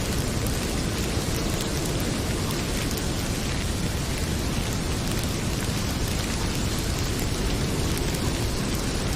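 Heavy rain pouring steadily, with a wood fire crackling in small scattered pops.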